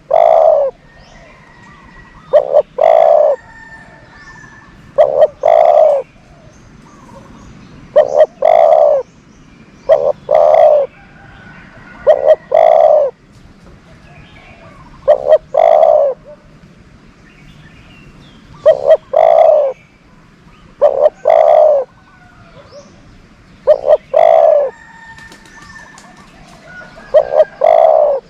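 Decoy spotted dove cooing over and over: a short note followed by a longer coo, repeated about every two and a half to three seconds, with faint small-bird chirps behind.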